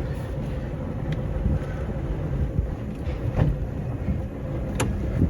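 Sterndrive (I/O) engine of a 2002 Hurricane FunDeck GS 201 deck boat running with a steady low rumble, with a few brief clicks or knocks over it.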